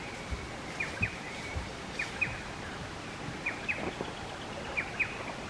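A small bird repeating a quick, high double chirp about every second and a half, over a steady faint outdoor hiss.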